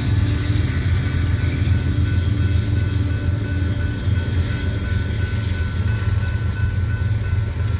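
Train running with a steady deep rumble and a faint steady whine above it.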